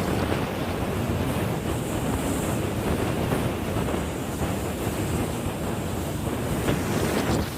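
Wind buffeting the microphone over rushing water and the steady run of a jet ski underway.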